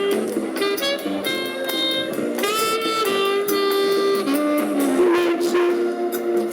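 Live jazz band playing, a saxophone carrying the melody in held and moving notes over drum and cymbal hits.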